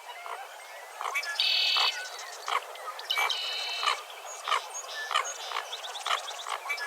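Dawn chorus of birds calling together. A buzzy trill lasting about half a second comes twice, and many short chirps repeat throughout.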